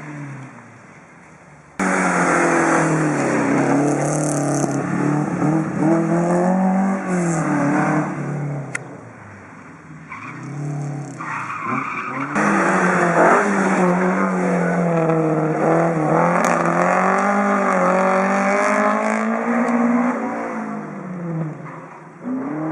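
Rally cars driven hard, engines revving up and dropping back through gear changes, with tyres skidding and squealing. The sound starts abruptly about two seconds in and again just past halfway, as a new pass begins.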